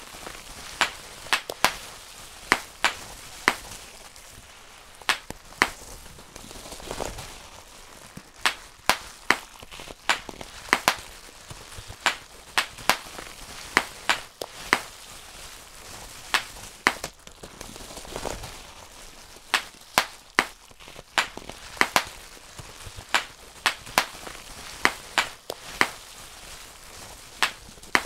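Bubble wrap being popped by hand, one bubble at a time: sharp pops at an uneven pace of about one or two a second, over the soft crinkle of the plastic sheet.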